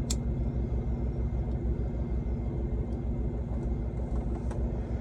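Diesel semi-truck engine idling steadily, a low rumble, with one sharp click just after the start.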